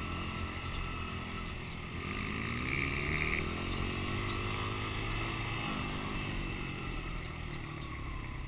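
Dirt bike engine running, its pitch rising about two seconds in as the bike speeds up, then falling back around six seconds in as it slows.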